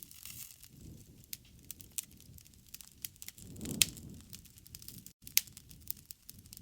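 Campfire burning, with irregular sharp pops and crackles over a low rumble of the flames, one louder pop with a swell of flame sound just past the middle.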